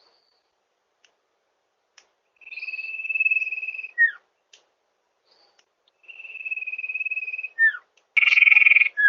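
Common iora (cipoh) calls: twice a long, steady, high whistle ending in a short falling note. Near the end comes a shorter, louder, harsher, buzzy note, again followed by a falling note.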